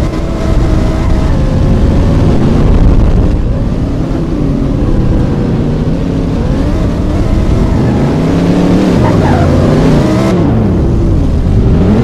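Loud car engines running, with one engine revving up and down several times in the second half.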